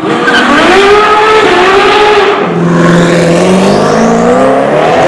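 Lamborghini Aventador SV Roadster's V12 running loud through a Powercraft aftermarket exhaust. Its note holds, drops lower about halfway through, then climbs steadily.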